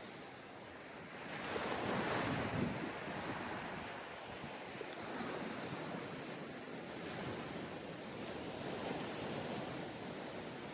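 Sea waves breaking on a sandy beach: a wave crashes about a second and a half in, then the surf washes and churns more softly.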